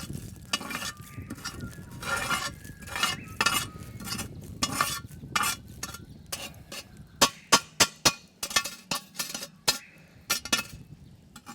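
Metal clinks and scrapes of a camp oven being opened and handled, with a run of sharp, loud clicks a little past the middle and a light sizzle from the roasting pork inside.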